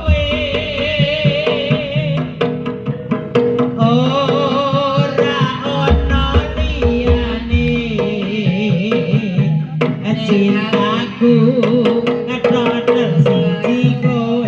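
Jaranan music played loud and continuous: hand drums beating quick strokes under a wavering, vibrato-laden melody line, with deep low strokes at the start and again around the middle.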